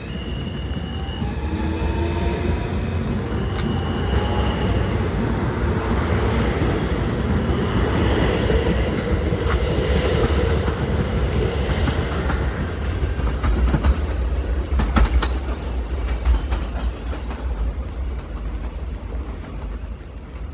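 An NYC subway L train pulling out of the station. Its traction motors whine, rising in pitch as it speeds up, over a rumble and the clack of wheels on the rails. The sound builds, peaks, then fades as the train moves away.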